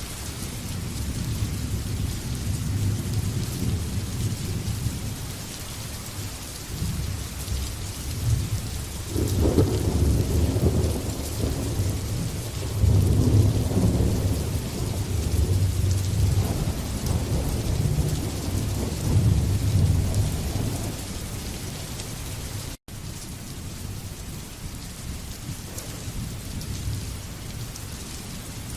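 Steady rain on a surface under rolling thunder: a long low rumble swells from about a third of the way in and dies down again after two-thirds. There is a split-second dropout about two-thirds through.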